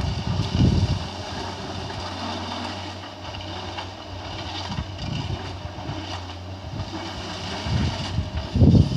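Diesel engine of a heavy forestry excavator running steadily with a low hum, with heavy low thumps about the first second and again near the end.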